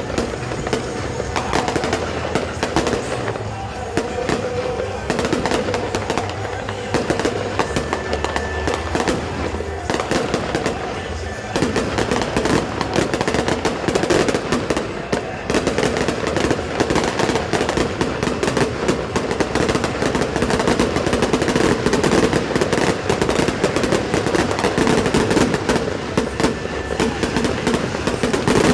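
Fireworks going off in rapid, overlapping volleys of bangs and crackling, getting denser and louder about twelve seconds in, with music playing underneath.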